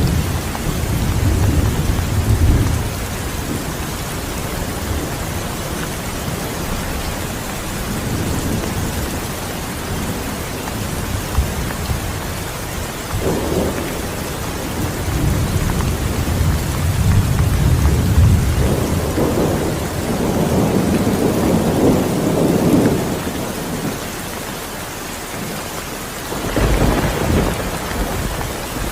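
Steady heavy rain with repeated rolls of low thunder: one at the start, a long rumbling stretch through the middle, and a shorter roll near the end.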